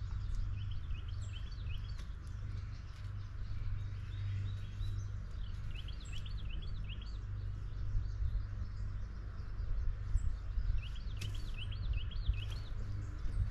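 A songbird singing three short phrases of quick, looping repeated notes, roughly every five seconds, over a steady low rumble.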